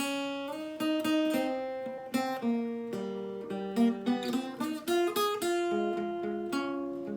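Acoustic guitar playing the chord progression A-flat, E-flat, F minor, D-flat, with picked and strummed chords and several chord changes.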